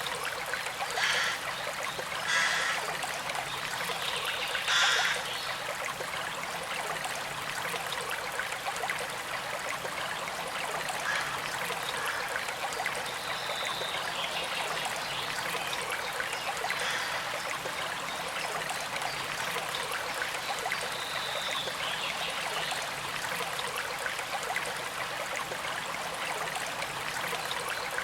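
Small creek trickling and flowing steadily, with a few brief louder bursts of water sound in the first five seconds.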